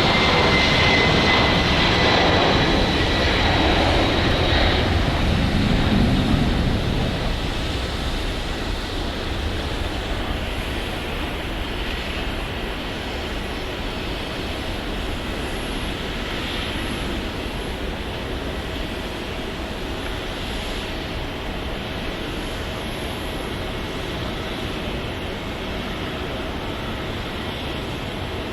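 Jet airliner engines passing close by, with a high whine over a dense rush. The whine falls slightly in pitch, and after about seven seconds the sound fades to a steadier, duller engine noise.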